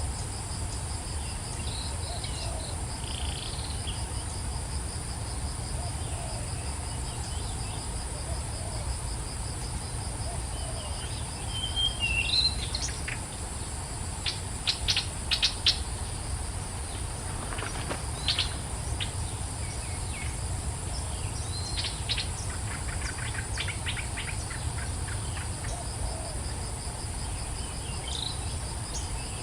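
A steady, high trilling chorus of insects with small birds chirping now and then over it. Near the middle comes a quick run of sharp chip notes, the loudest sounds here. A low rumble runs underneath.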